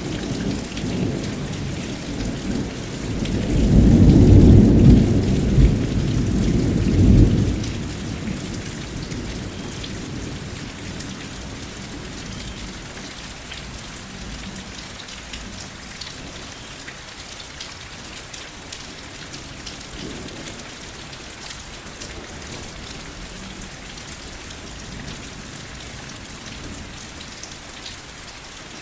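Steady rain with a low rolling rumble of thunder that swells a few seconds in and dies away by about eight seconds, leaving the rain alone.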